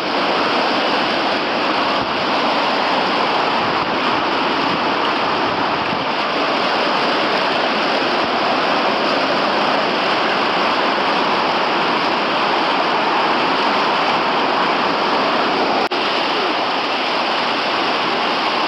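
White water rushing steadily through a river rapid and standing wave, an unbroken hiss of moving water.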